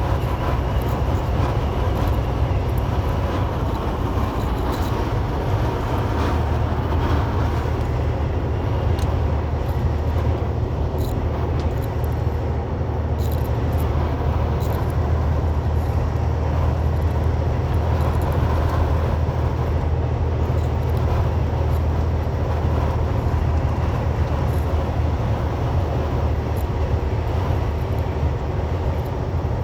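Semi truck's diesel engine droning steadily with road and wind noise, heard from inside the cab while driving into a strong headwind.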